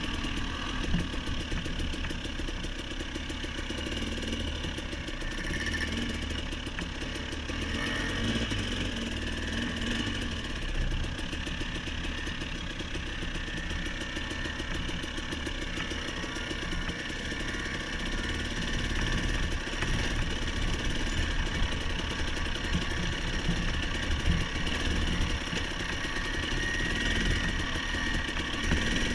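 Off-road motorcycle engine running steadily at low throttle, its firing pulses coming fast and even, with small swells in loudness as the throttle is worked.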